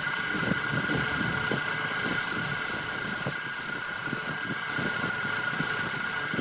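Wood lathe running with a steady high whine, with a rough hiss of wood being worked on the spinning piece.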